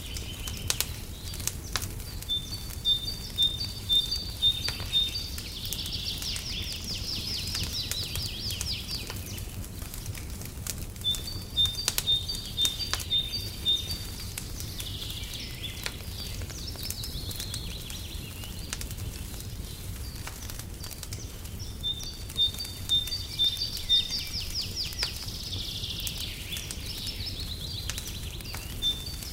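A songbird repeats the same phrase about every ten seconds: a run of short, evenly spaced high notes followed by a trill. Underneath, a fireplace crackles with scattered sharp pops over a steady low rumble.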